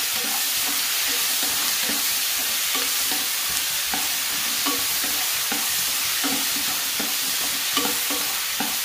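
Chopped onion, tomato and green chillies sizzling in hot oil in a granite-coated kadai while a wooden spatula stirs them, scraping and tossing in repeated short strokes, about one every half second to second: the vegetables being sautéed.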